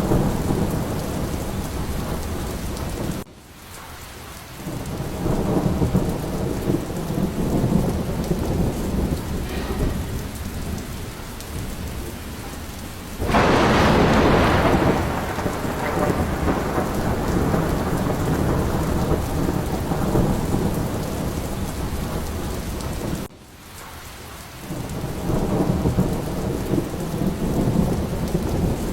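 Steady rain with low rolling thunder rumbling beneath it. About thirteen seconds in, a sharper, louder thunderclap breaks out and rumbles away over several seconds. Twice, about twenty seconds apart, the sound drops away suddenly for a second or so before the rain and rumble come back.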